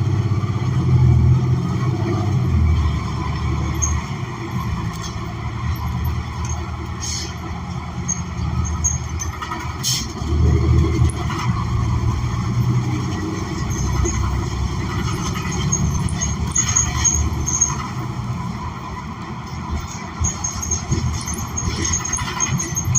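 A New Flyer XN40 city bus in motion, heard from inside the cabin: its Cummins Westport ISL G natural-gas engine and Allison B400R automatic transmission run with a low rumble that swells and eases several times, over road noise and light rattles. There is one sharp click about ten seconds in.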